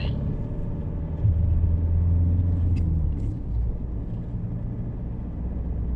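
Car cabin road noise: a steady low drone of engine and tyres while driving, swelling for a couple of seconds about a second in.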